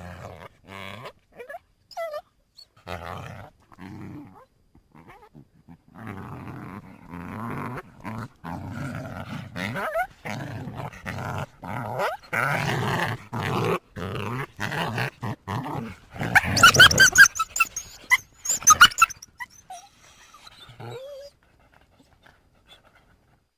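Coyotes growling and snarling in short rough bouts that thicken into continuous growling. About sixteen seconds in, this breaks into a loud burst of high yelps and yips, which then trails off into a few faint calls.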